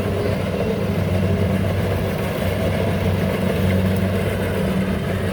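Rice combine harvester's engine running steadily with an even, unbroken low hum.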